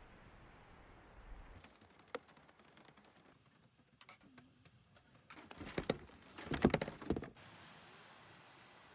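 Scattered light clicks and taps, then a cluster of louder knocks and rattles about six to seven seconds in, like things being handled in a small room.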